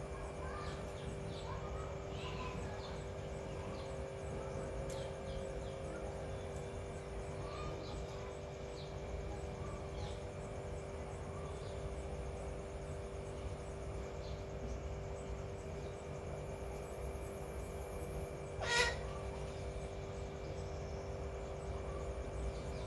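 Faint, scattered short bird chirps over a steady hum. Late on comes a single sharp click.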